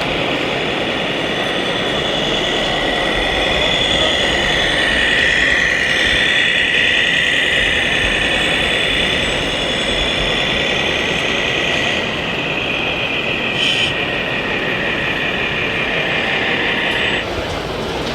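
High-pitched whine of a radio-controlled model machine's electric drive running steadily, cutting off suddenly near the end.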